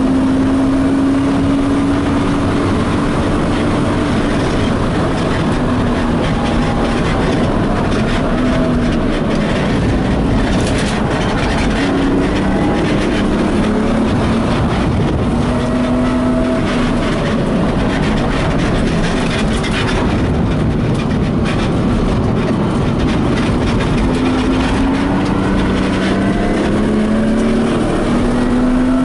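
BMW E36 coupe's engine heard from inside the stripped, roll-caged cabin at track pace, its pitch rising and falling in pulls with throttle and gear changes, over steady road and wind noise.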